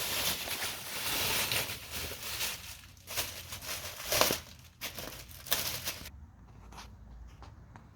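Rustling and crinkling handling noise with a few short knocks as the new replacement CV axle is handled and compared with the old one, dying down about six seconds in.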